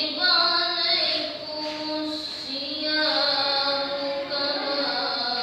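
A student's voice reciting the Quran in the melodic tilawah style, holding long notes with ornamented turns and slides in pitch.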